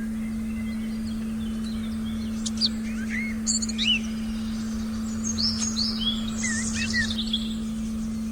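Forest birdsong, with several birds chirping and whistling in short calls that come thickest in the middle, over a steady, unbroken low tone of a meditation frequency track.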